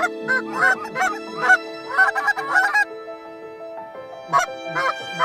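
Goose honks and clucks in quick runs that die away about three seconds in, with a couple more honks near the end, over soft background music with held notes.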